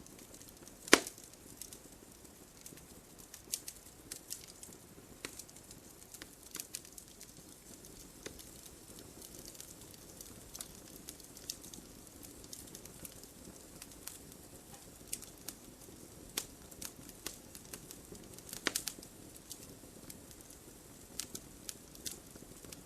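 Wood fire crackling: irregular sharp pops and snaps over a low steady hiss, with one loud pop about a second in and a quick cluster of pops near the end.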